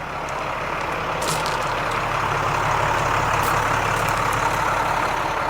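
An engine running at a steady idle, growing a little louder over the first two seconds and then holding steady.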